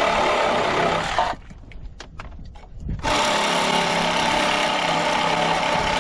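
Power tool running in two bursts, a short one and then one of nearly four seconds, with a steady whine inside the noise, cutting through clips on a junkyard engine's wiring and lines.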